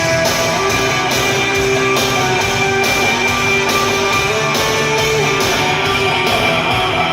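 Live rock band playing an instrumental passage between verses: guitars holding sustained notes over a steady drum beat.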